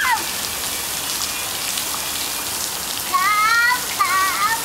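Steady rain falling and pattering on the ground. Near the end a child gives two high-pitched calls over it.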